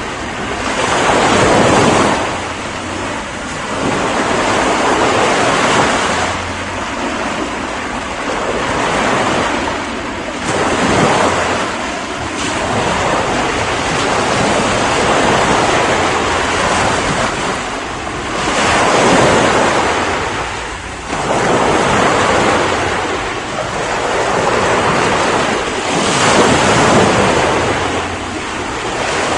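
Ocean surf: waves breaking and washing back, the rush of water swelling and easing every few seconds.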